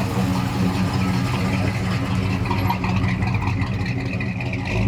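A car engine running steadily at idle, with a deep, even rumble.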